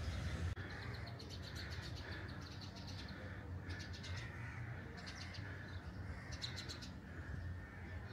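Small birds chirping in short, rapid high-pitched trills that repeat every second or so, over faint outdoor background.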